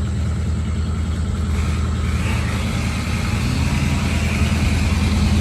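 A large engine idling steadily with a low, even rumble.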